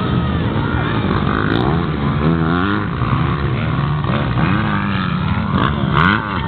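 Motor engines revving, their pitch rising and falling several times, over a continuous loud outdoor noise bed.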